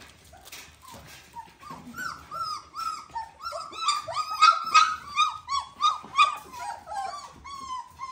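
Several young Dalmatian puppies crying: a dense run of short, high squeals that each fall in pitch, overlapping one another and loudest around the middle. The crying is taken to be puppies wanting their mother.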